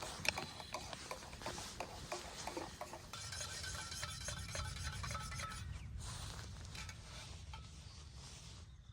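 Camp gear being handled and moved about: rubbing and scraping, with many small clicks and clinks in the first few seconds.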